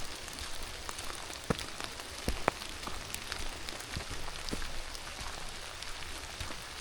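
Steady rain falling, an even hiss with many separate drops ticking sharply close by, a few louder drops about one and a half and two and a half seconds in.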